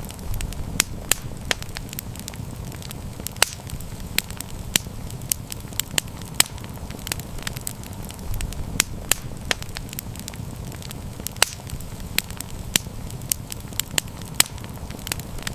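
Wood fire burning steadily, with frequent irregular sharp crackles and pops over a low rumble of the flames.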